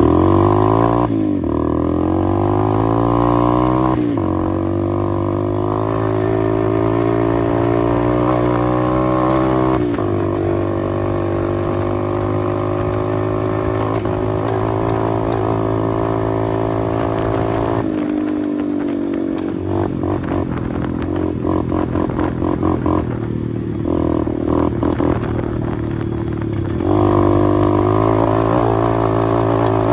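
125cc pit bike engine running under way, its pitch rising and falling with throttle and gear changes. A little past halfway it drops to a lower, choppier note, then picks back up near the end.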